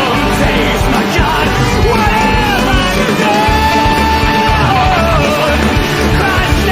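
Loud rock music from a full band, with wordless yelled and sung vocal lines bending over it and one long held note in the middle.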